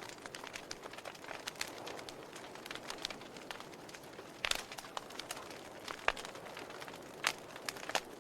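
Wood fire crackling: irregular sharp pops and snaps over a steady soft hiss, with a few louder pops in the second half.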